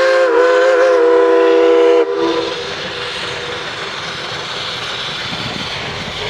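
Geared steam logging locomotive's whistle blowing several tones at once, wavering slightly, then cutting off about two seconds in. A steady rushing noise follows.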